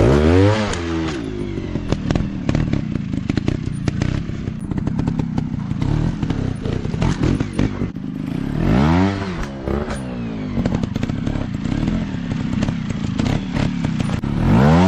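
Dirt bike engine revving up and falling back three times: at the start, about nine seconds in, and rising again near the end, running lower in between. Frequent rattles and knocks sound through it.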